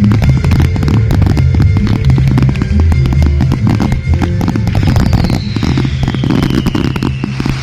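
Fireworks display music with a heavy bass line, under a rapid, dense barrage of firework bangs and crackles. A high whistle-like tone glides steadily downward through the second half.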